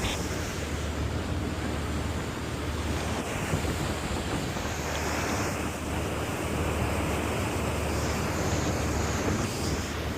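Wind buffeting the microphone on a moving ferry, over the rush of water along the hull and a steady low drone from the ferry's engines.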